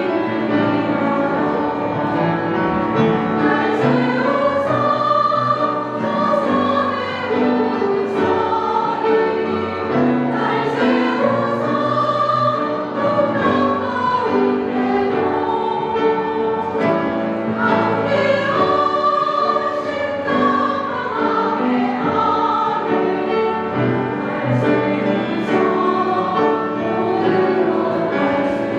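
Women's vocal ensemble singing in several-part harmony, in long held phrases that rise and fall.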